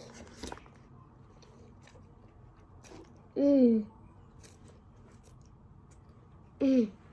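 Operation game's electronic buzzer going off twice, each about half a second with a falling pitch and a sudden start and stop: the tweezers touching the metal edge of a cavity. Faint small clicks and taps of the tweezers and plastic pieces between the buzzes.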